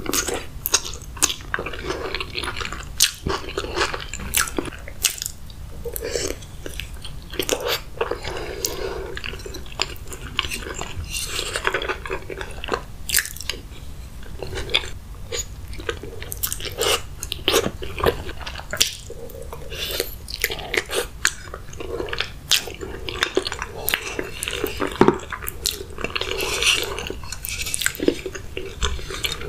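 Close-miked mukbang eating sounds: a person biting and chewing mouthfuls of saucy meat and boiled-egg stew, with many short wet mouth clicks throughout.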